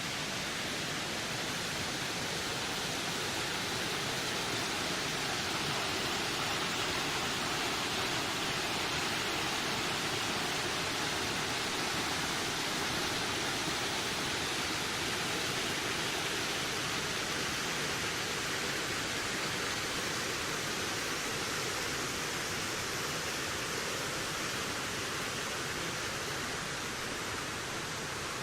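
Wind blowing steadily through a forest, an even rushing hiss with no gusts or breaks that swells slightly and then eases a little.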